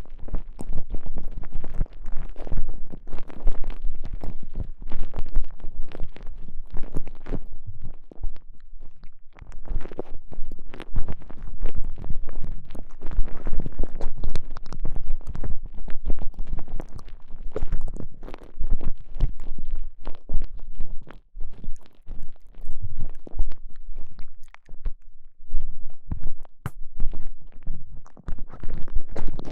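Close squishing and crackling from a soft TENGA Egg sleeve being squeezed and rubbed around a microphone inserted inside it: a dense, irregular stream of rubs and crackles, heaviest in the low end.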